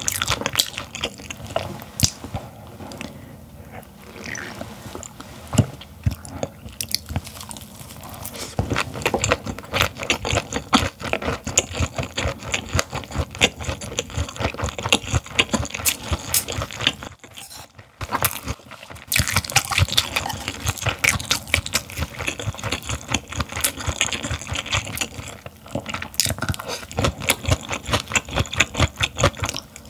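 Close-miked chewing of raw gizzard shad, wet and crunchy with many small crackling bites, and a short pause a little past halfway.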